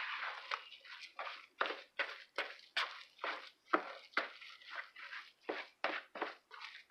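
Spoon stirring stuffing mix moistened with chicken broth in a bowl: a quick, irregular run of short scraping strokes, about two or three a second.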